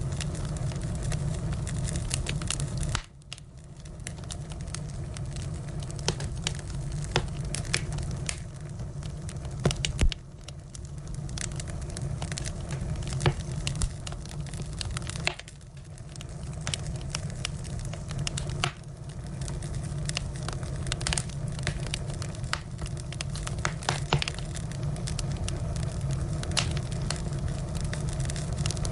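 Wood fire burning: a steady low rumble with frequent crackles and sharp pops from the firewood, a louder pop about ten seconds in. The fire's sound dips suddenly a few times and builds back.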